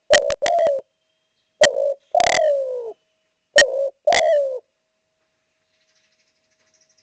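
Spotted dove cooing close to the microphone: three phrases, each a short coo followed by a longer coo that falls in pitch. The calling stops a little after halfway through.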